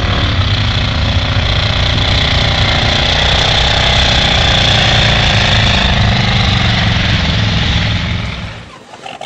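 Loud, close engine of a modified 4x4 mud truck running steadily for several seconds, then dropping away near the end.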